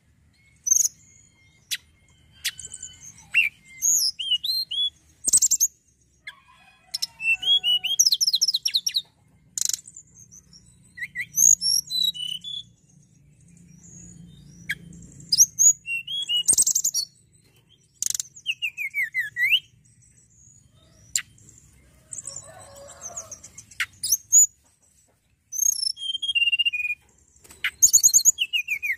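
Tledekan gunung singing a varied song of short phrases: sharp chirps, rapid trills and down-slurred whistles, separated by brief pauses.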